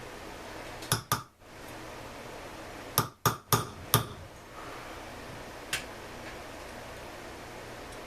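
Sharp clicks and knocks of hard objects against a steady hiss: two about a second in, a quick run of four around three seconds in, then one faint one.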